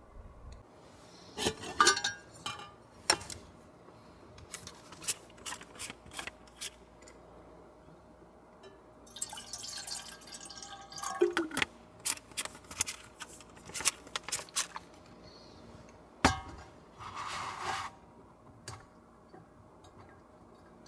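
Glassware and dishes being handled: scattered clinks and light taps, with a couple of short spells of liquid being poured.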